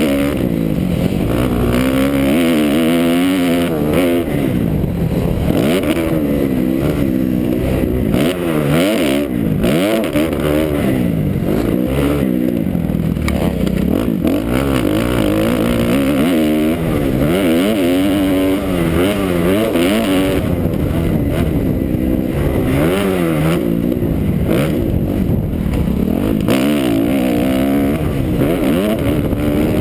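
Motocross bike racing: a 2009 Kawasaki KX250F's four-stroke single-cylinder engine, its note rising and falling over and over every second or two as the throttle opens and closes and the gears change.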